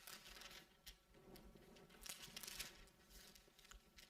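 Near silence, with faint rustling of paper pages, a little louder about two seconds in.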